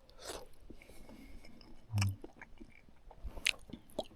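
A man chewing and biting into sausages, close to the microphone: short wet crackly mouth sounds with a soft low thump about two seconds in.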